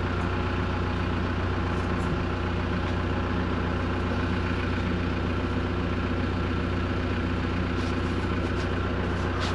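Vehicle engine idling steadily, its low hum unchanging.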